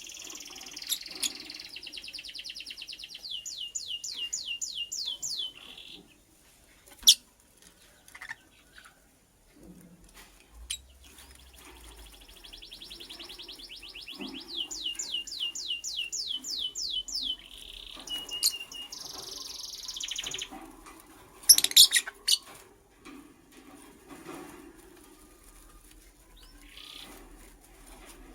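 Lovebird chirping in long runs of rapid, repeated high notes that blur into trills, twice, with a quiet gap between. A few sharp knocks cut in, the loudest a little past the middle.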